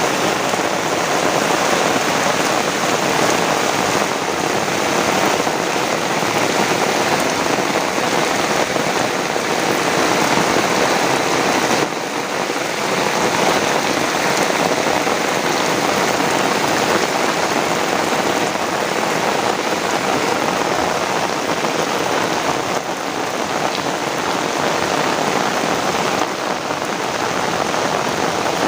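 Heavy rain falling steadily, a dense even hiss with a few slight dips in level.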